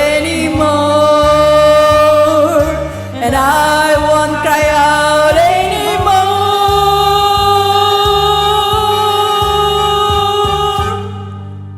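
Solo singing voice holding the song's final words in long, wavering notes over an accompaniment with a pulsing low bass line. Near the end the music stops and the sound dies away.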